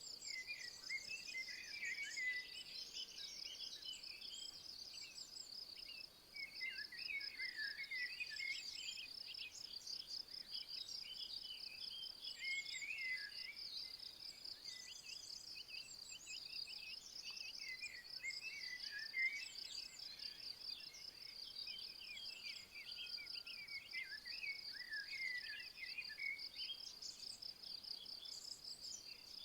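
A steady, high, finely pulsing insect trill, like a cricket or bush-cricket, runs throughout, while songbirds sing short warbling phrases in bursts every few seconds. Faint outdoor nature ambience.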